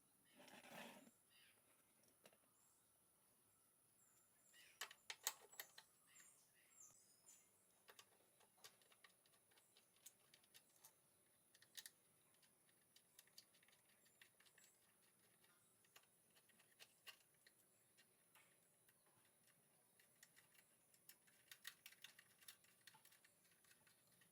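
Near silence, with faint scattered clicks and light taps.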